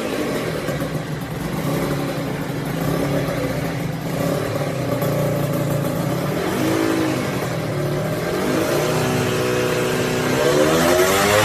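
Honda NSR 150 SP's single-cylinder two-stroke engine running through its exhaust at low revs, with a short blip of the throttle about seven seconds in. The engine revs up near the end.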